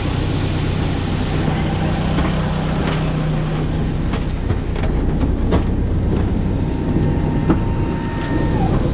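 Steady low rumble and rattling inside a moving vehicle, with scattered knocks and clicks and a faint steady tone in the last couple of seconds.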